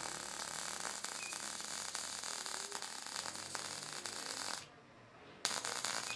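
Electric welding arc crackling and hissing on metalon steel tubing: one weld run that stops suddenly about four and a half seconds in, and a new run struck near the end.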